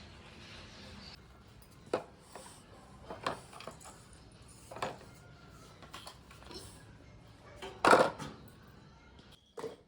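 Irregular light knocks and clicks of objects being handled, with the loudest clatter about eight seconds in.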